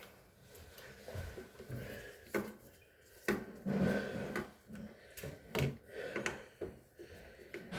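Scattered clicks and knocks of hard parts and tools being handled during a refrigerator repair, with a rubbing rustle about four seconds in.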